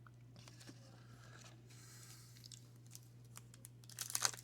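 Faint rustling and clicks of baseball cards being handled. About four seconds in, a loud run of crinkling and tearing starts as the wrapper of the next 1990 Fleer baseball card pack is opened.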